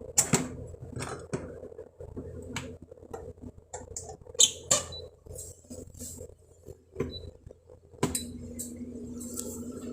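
Kitchen clatter of dishes and utensils: a series of separate clinks and knocks, the sharpest just after the start and about four and a half seconds in. About eight seconds in, a steady low hum starts.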